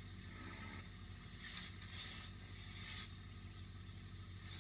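Demolition derby car's engine idling steadily, heard from inside the car. Three short hisses come in the middle, about half a second to a second apart.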